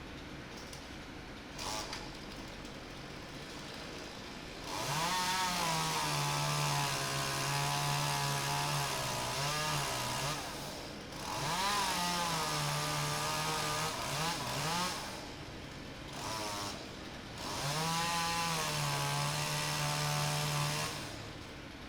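Small chainsaw revving up to full throttle three times, each run lasting a few seconds with a rising whine that then holds steady, and dropping back near idle in between as it cuts off broken branches.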